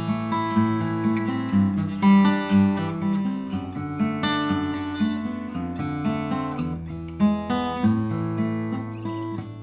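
Steel-string OM-size acoustic guitar with Pernambuco back and sides and a European spruce top, played in a run of plucked chords and single notes that ring on one into the next.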